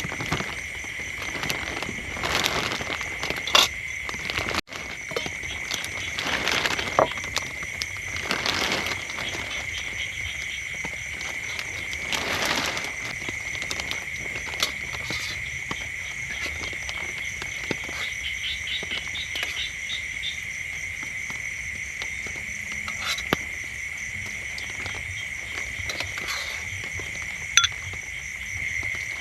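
Frogs calling in a steady, high, unbroken chorus over the even hiss of rain, with a few sharp taps of drops here and there.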